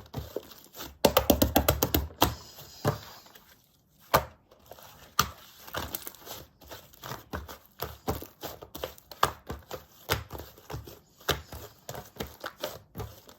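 Slime being pressed and stretched by hand, making clicking and popping sounds. There is a quick run of loud pops about a second in, then scattered clicks.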